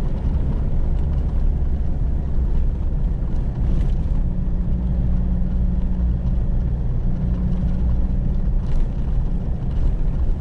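Vehicle engine running steadily under load as it climbs a steep paved mountain road, heard from inside the cab as a steady low drone with road noise.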